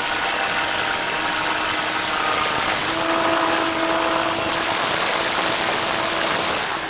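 Engine-driven sawmill running steadily: an even, loud hiss over a constant engine hum.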